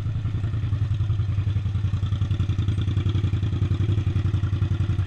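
Suzuki SV650's 645 cc V-twin engine running steadily, with an even, rapid pulsing exhaust beat.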